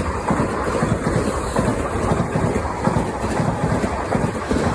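A train running on the track, a loud rumble with irregular clattering from the wheels and rails.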